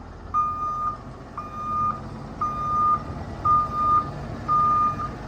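Truck backup alarm beeping steadily, one pitched beep about every second, over the low running of a Cummins diesel engine as the truck reverses.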